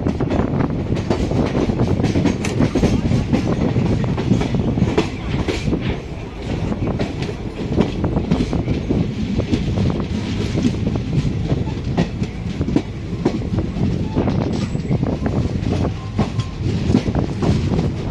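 Express passenger train running at speed: a steady low rumble with rapid, irregular clatter of the coach wheels over the rail joints.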